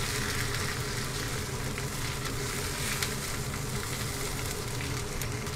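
Lotus-root slices stuffed with minced pork sizzling in oil in a frying pan: a steady frying hiss with small scattered crackles and a low steady hum beneath.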